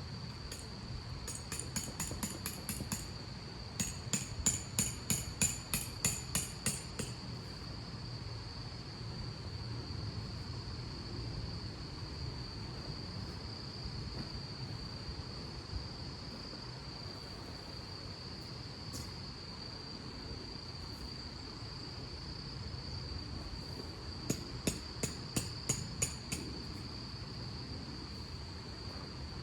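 An insect trills steadily on one high note. Three times, rapid runs of sharp ticking chirps, about seven a second, break in over a low rumbling background.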